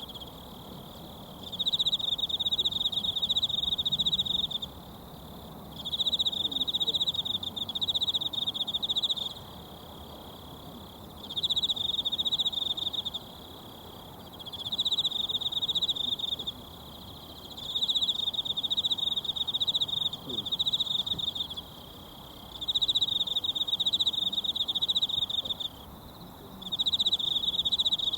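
An insect, likely a cricket, trilling high and fast in bouts of two to four seconds with short pauses, about seven bouts in all. Beneath it runs the faint steady murmur of a mountain stream.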